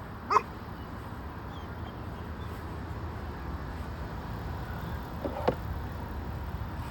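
A dog gives two short, sharp barks or yips, the first right at the start and the second about five seconds later, over a steady low background rumble.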